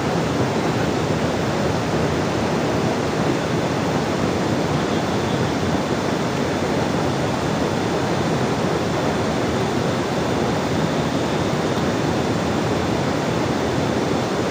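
Steady, even rush of water, loud and unbroken.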